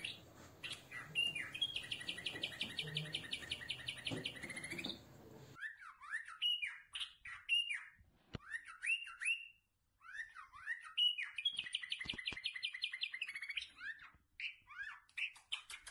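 Small birds chirping, with rapid trills and short swooping, rising whistled calls. The background hiss cuts out suddenly about five and a half seconds in, and the calls carry on over a quieter background.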